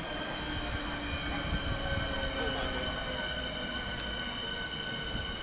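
Electric multiple-unit train running at a station: a steady high-pitched electrical whine made of several held tones, over a low rumble.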